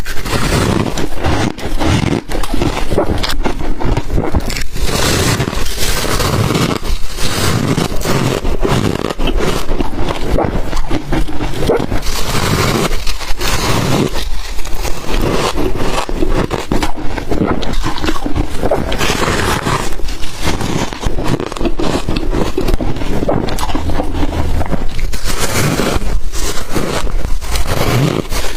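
Close-miked crunching of ice dusted with matcha and milk powder, bitten and chewed in a dense run of crackling crunches with only brief pauses.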